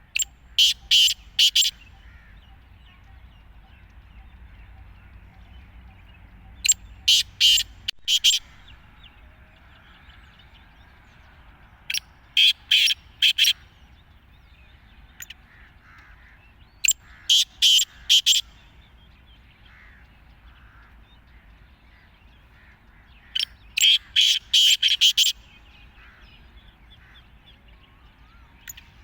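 Black francolin calling: five loud bouts of its grating call, each a quick run of four or five sharp notes, repeated every five or six seconds.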